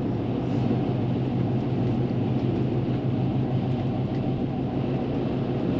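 Car driving, heard from inside the cabin: a steady low hum of engine and tyre noise.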